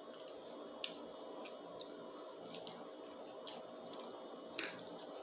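Quiet eating sounds: spaghetti being chewed, with scattered small wet mouth clicks, the sharpest one a little before the end.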